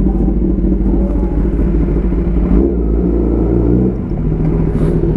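Kawasaki ZX10R's inline four-cylinder engine through an Arrow full exhaust system, running loudly under the rider. The note shifts about two and a half seconds in and eases off slightly about four seconds in.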